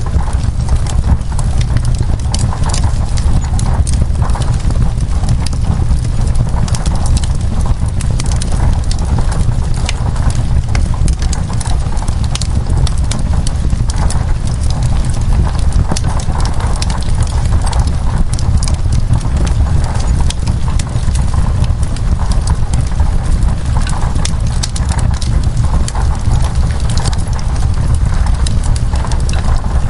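Wood fire crackling in a fireplace: a dense, irregular run of small pops and snaps over a steady low rumble.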